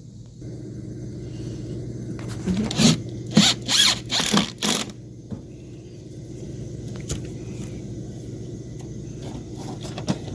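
A quick run of about five short, raspy scraping strokes, over a steady low hum.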